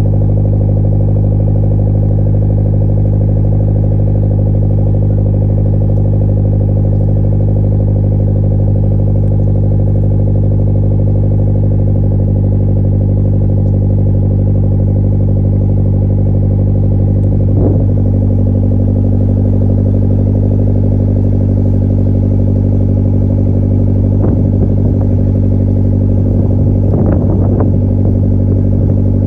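Mazdaspeed Miata's turbocharged 1.8-litre four-cylinder idling steadily through an aftermarket exhaust with a high-flow catted downpipe, resonated midpipe and dual 5.5-inch tips. The note wavers briefly a few times past the middle and near the end.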